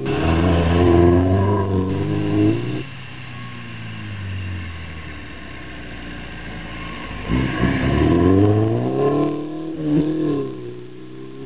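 Ford Orion 1.3 engine and exhaust under throttle: the revs are held high, drop off about three seconds in to a lower steady note, then climb and fall a couple of times from about seven seconds in before easing off near the end.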